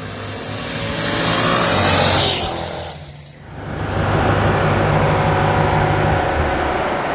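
Street-race cars under hard acceleration, engines revving up and swelling for about two and a half seconds. After a brief drop, engine and road noise run on steadily.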